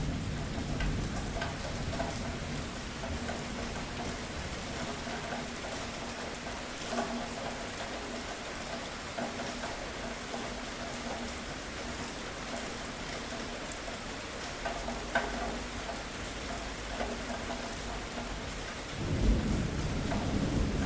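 Steady rain falling on a surface, with scattered drips. A low thunder rumble dies away at the start, and another swells up near the end.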